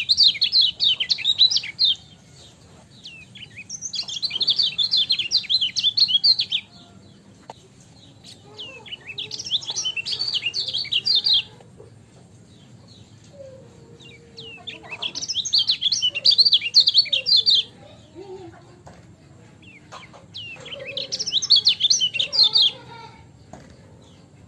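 Kecial kuning white-eye singing five bursts of rapid, high twittering, each about two seconds long with short pauses between. Softer, lower calls are heard between the later bursts.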